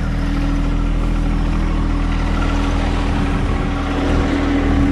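A vehicle engine running at a steady speed, a constant drone that does not rise or fall.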